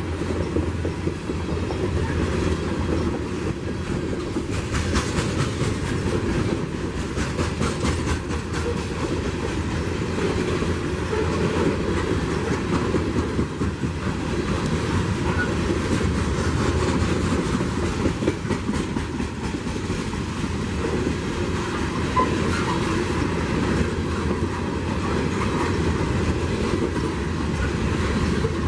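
Train rolling past, its wheels clicking steadily over the rail joints with a continuous low rumble.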